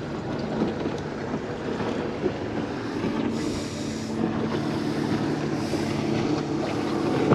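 Another boat's outboard motor droning steadily as it runs close by, with wind buffeting the microphone and water sounds.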